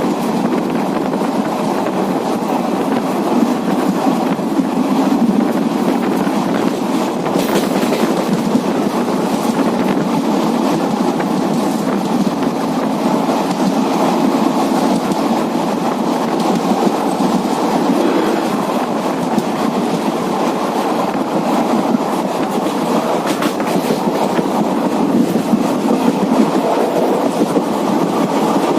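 Passenger train coach running along the track, heard from aboard: a continuous steady rumble of wheels on rail.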